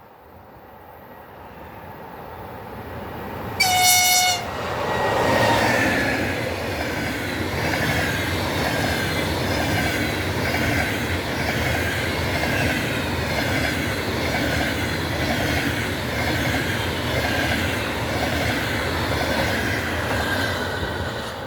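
EP20 electric locomotive approaching, its noise rising, then sounding one short horn blast about four seconds in. The passenger train then passes close by with loud, rhythmic clickety-clack of wheels over the rail joints.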